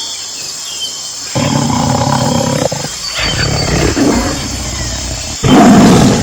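Tiger growling and roaring: rough growls begin about a second in, and the loudest roar comes near the end.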